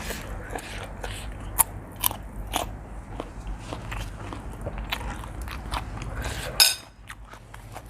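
Close-up eating sounds: a person chewing and biting into seafood instant noodles, many short wet clicks and smacks, with one louder, sharper sound near the end.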